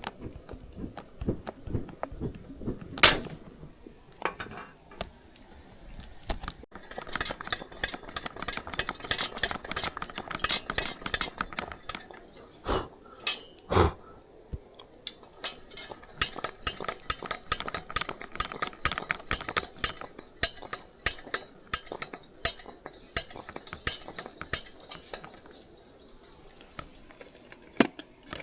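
Metal utensils clinking and scraping against pots and pans, in quick runs of small clicks, with a few louder knocks: one a few seconds in and two about halfway.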